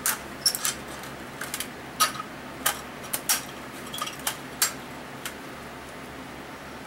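Irregular light metallic clinks and clicks of hand tools and loose engine parts being handled during an engine teardown, about a dozen in the first five seconds, then fewer.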